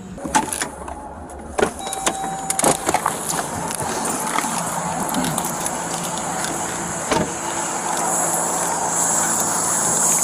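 Several sharp clicks and knocks with a short beep-like tone, then a steady rushing noise that slowly grows louder.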